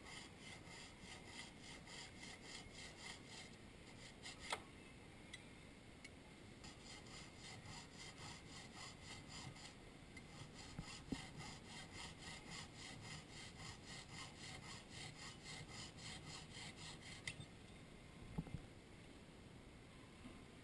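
Jeweler's saw cutting through a platinum ring shank in quick, even strokes that stop a few seconds before the end, with a few small clicks along the way.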